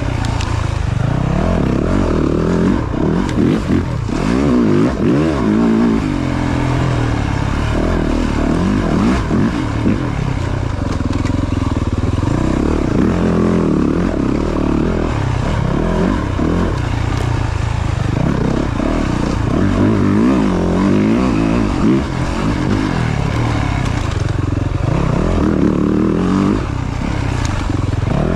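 Yamaha YZ450F dirt bike's four-stroke single-cylinder engine being ridden hard, its pitch rising and falling over and over as the throttle is opened and closed, with a rough scraping noise underneath.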